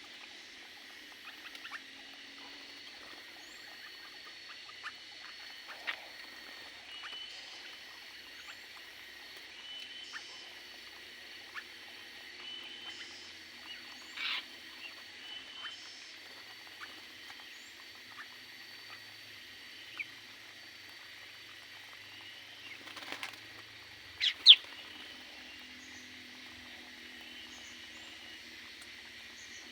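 Small aviary birds chirping: many short calls over a steady high background chatter, with a louder call about halfway through and a sharp, loudest pair of calls a few seconds before the end.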